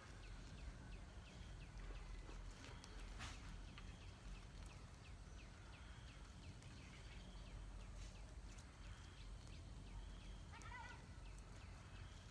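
Faint bird chirping: short, quick, downward-sliding chirps repeated several times a second over a low steady hum.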